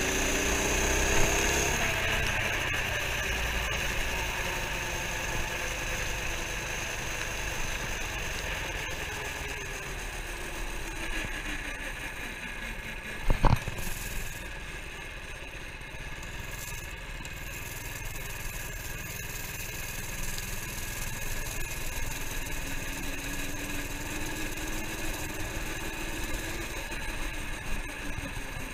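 Minibike's small engine running under way, its pitch falling and rising with the throttle. A single sharp knock comes about halfway through.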